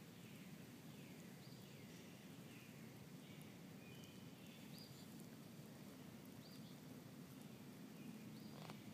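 Faint birds calling, a few short chirps and falling whistles scattered through, over a low steady background rumble.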